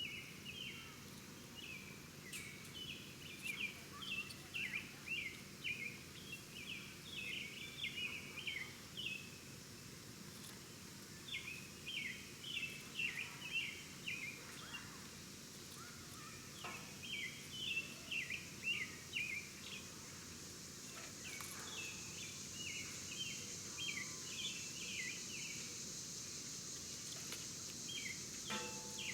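A songbird singing outdoors: repeated phrases of quick, high, down-slurred chirps, each run lasting a few seconds with short pauses between. Under it is a steady high hiss that grows louder about two-thirds of the way through.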